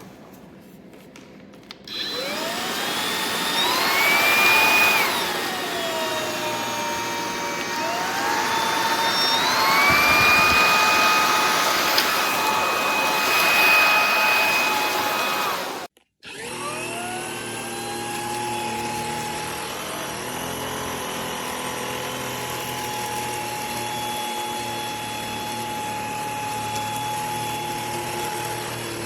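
Eureka RapidClean Pro cordless stick vacuum's motor starting with a rising whine and shifting pitch up and down as it steps between power settings. It cuts out briefly just past halfway, then spins up again and runs at a steady speed.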